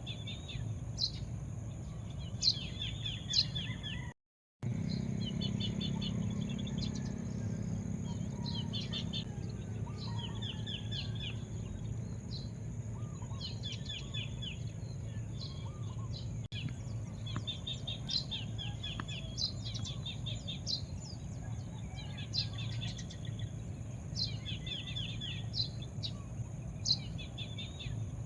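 Several small birds chirping: repeated short, high calls and quick trilled runs of notes, over a steady low rumble. The sound cuts out for about half a second around four seconds in.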